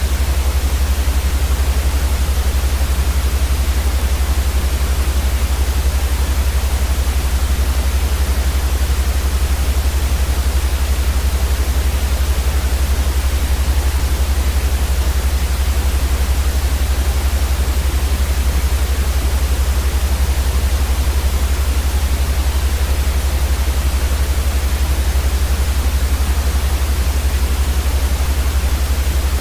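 Steady white noise, an even hiss across all pitches with no change, over a strong deep hum.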